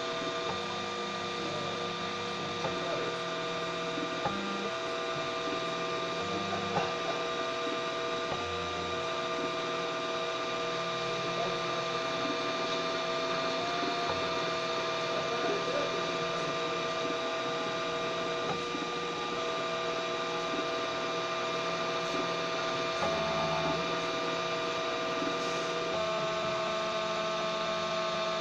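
3D printer printing: the stepper motors give a steady whine of several tones, with some tones jumping to new pitches every second or two as the moves change.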